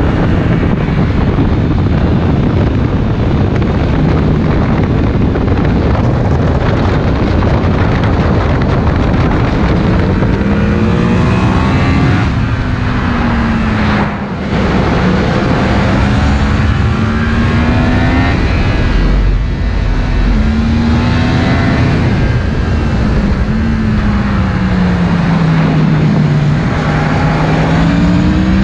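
Yamaha MT-10's crossplane inline-four engine with an Akrapovic silencer under way, its pitch rising and falling over and over as the throttle is opened and eased off, with a short drop in level about halfway through. Heavy wind rush on the microphone.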